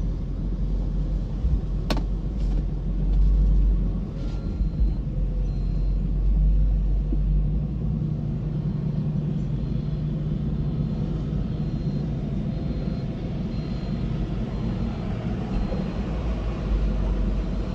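Steady low rumble of a running truck engine, with a sharp click about two seconds in.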